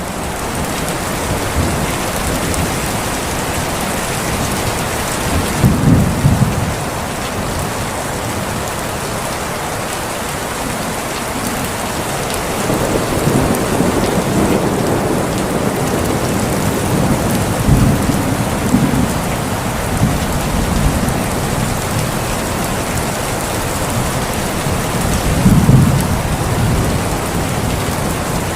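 Thunderstorm: steady heavy rain falling, with low rolls of thunder about six seconds in, several more through the middle, and a loud one near the end.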